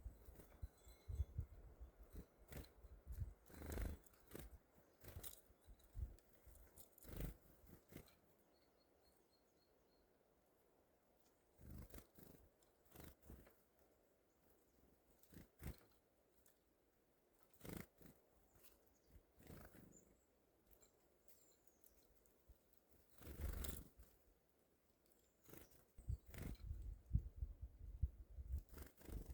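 Mostly quiet forest with scattered faint taps and clicks, typical of small birds landing and pecking at a feeder, and a few soft low rumbles. About nine seconds in comes a faint, quick series of high bird notes.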